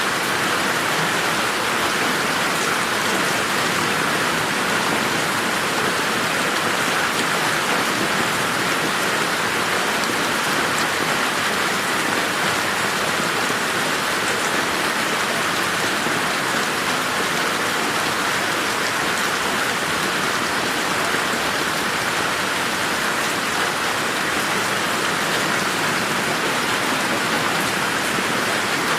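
Steady rain falling in a garden, an even hiss of many drops with no thunder.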